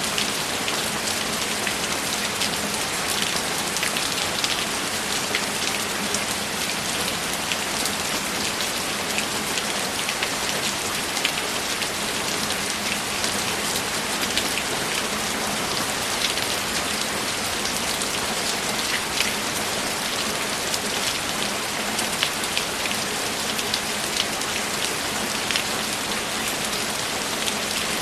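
Steady rainfall with many individual drops pattering on a hard surface.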